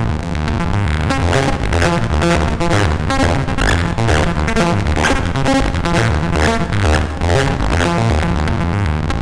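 Sequenced synthesizer bass line run through a Befaco FX Boy effects cartridge: a fast repeating pattern of short notes stepping in pitch.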